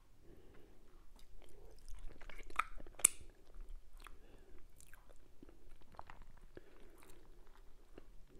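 Close-miked eating of fufu and turkey meat in okra soup: soft wet chewing and biting with many small mouth clicks and smacks, one sharper click about three seconds in.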